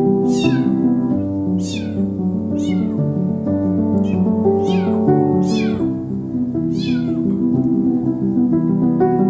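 A kitten meowing over and over: about six short, high-pitched cries, each falling in pitch, a crying that the uploader takes for hunger. Background music with sustained, harp-like notes plays underneath.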